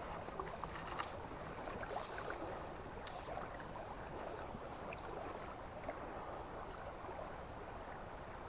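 River water running with a steady rush, with a few faint clicks about one, two and three seconds in.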